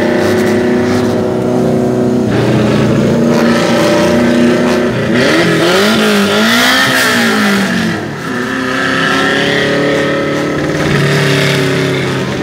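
Toyota Corolla KE35's engine and exhaust, loud from inside the cabin while driving: it holds a steady note, is revved up and down several times in quick succession around the middle, then settles back to a steady pull.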